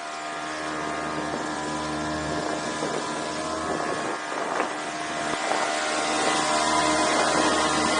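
A small motorboat's engine running steadily, pushing into strong wind, with wind rushing over the microphone. It grows gradually louder, with a few short splash-like knocks about halfway through.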